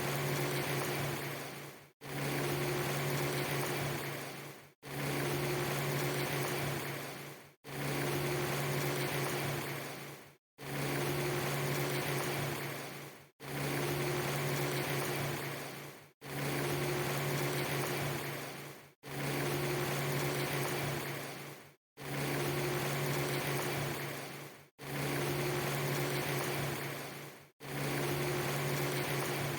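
Rain-like steady hiss with a low hum under it, in a short clip of just under three seconds that repeats about ten times: each repeat starts suddenly, fades away and cuts to a brief silence before the next.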